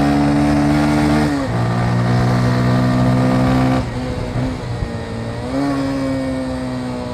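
Motorcycle engine under way. It holds a steady pitch, drops in pitch about a second in as it shifts up a gear, eases off and gets quieter near four seconds, then climbs in pitch again as it accelerates.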